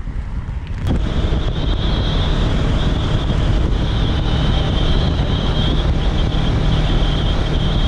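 Motorcycle riding at steady speed: heavy wind rushing over the microphone with the engine's steady drone underneath. About a second in, the sound switches abruptly from a lower rumble to this louder wind and engine noise.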